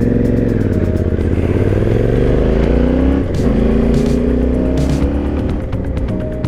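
Yamaha Ténéré 700's parallel-twin engine pulling hard, its pitch climbing, dropping sharply about three seconds in at an upshift, then climbing again. Music comes in near the end.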